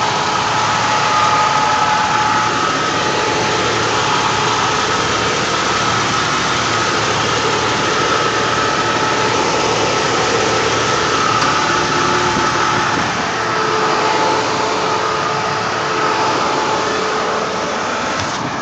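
Jeep Cherokee's 4.0-litre straight-six engine idling steadily, a constant hum with a few faint held tones.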